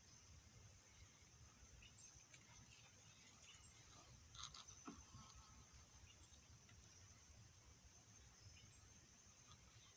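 Crickets and other insects trilling steadily in rural daytime ambience, with short high chirps every couple of seconds. A brief clatter about halfway through.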